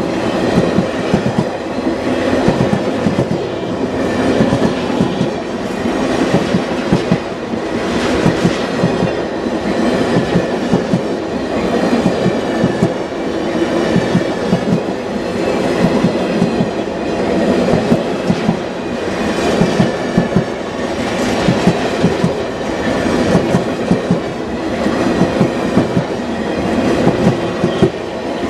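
Cars of the Ringling Bros. circus train rolling past at track side, wheels clicking steadily over the rail joints.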